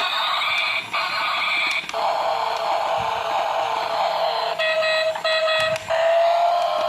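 Battery-operated toy cement mixer truck playing its electronic sound effects through a small built-in speaker: a string of beeping tones in short blocks, a falling glide, then a slowly rising tone.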